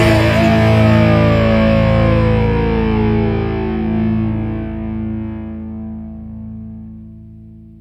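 Final distorted electric guitar chord of a rock song ringing out and slowly dying away, with one note sliding down in pitch over the first few seconds.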